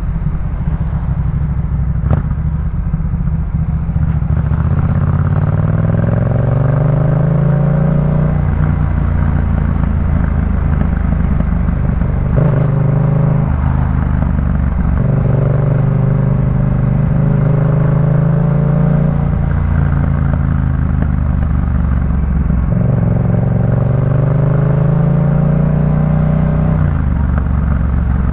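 2018 Yamaha MT-07's parallel-twin engine through a Jeskap K4 full exhaust, being ridden. The engine note climbs in pitch three times, starting about 5, 15 and 23 seconds in, and settles lower in between.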